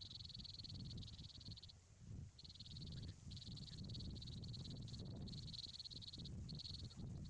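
A high, buzzy, finely pulsed animal trill, repeated in about six bouts of up to a second and a half with short breaks between them, over a low rumble.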